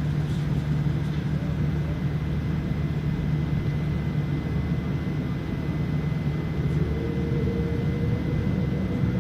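Steady cabin noise inside a Boeing 787-9 airliner: an even rush of engine and air noise with a low hum, and a faint tone rising slightly about seven seconds in.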